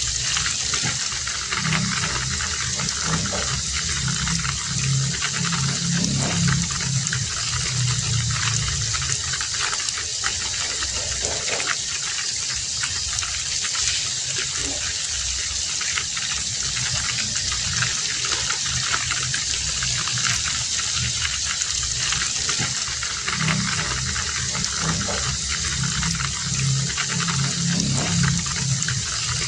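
Heavy rain falling steadily, with a low, uneven rumble that comes and goes underneath.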